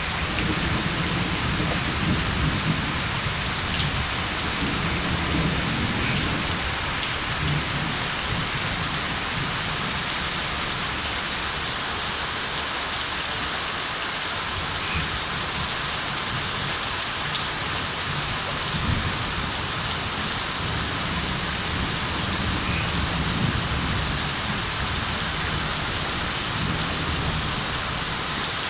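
Steady rain falling, with distant thunder rumbling low in the first several seconds and again around twenty seconds in.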